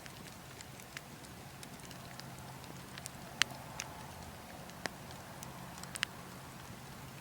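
Burning wood logs crackling, with scattered sharp pops, the loudest a little past the middle, over a steady low rumble of wind.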